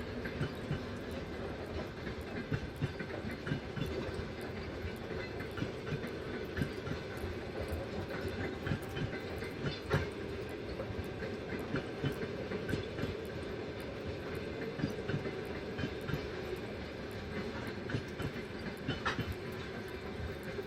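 A train running along the rails: a steady rumble and hum with wheels clicking over the rail joints throughout.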